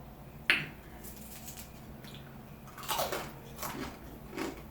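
A person biting and chewing crunchy food close to the microphone: a sharp crack about half a second in, then several short crunching bursts.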